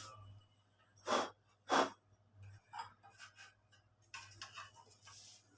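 Short scraping and rustling sounds, two clear ones about a second in and a few fainter ones near the end: the plastic front cover of a Usha 550E embroidery machine being handled and fitted back on.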